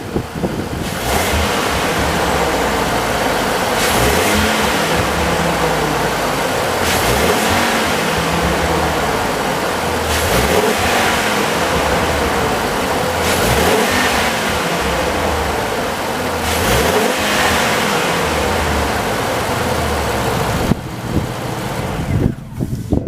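2018 Ford F-450 truck engine running and revved about six times, each rev rising and falling back at an even pace. The sound drops sharply near the end.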